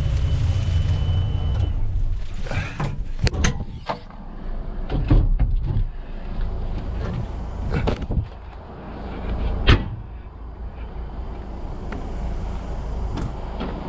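A heavy vehicle's engine running, cutting off about two seconds in. Scattered metal knocks and clanks follow.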